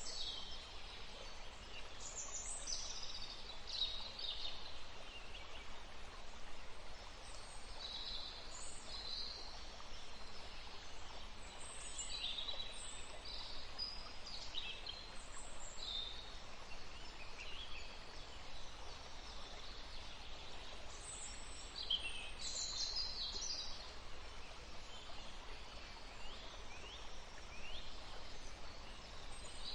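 Several small birds calling and chirping, short high-pitched calls scattered throughout, over a steady background hiss.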